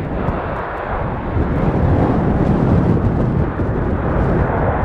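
Deep jet rumble of a Boeing 777F's engines on short final approach, growing louder about a second and a half in as the freighter nears touchdown.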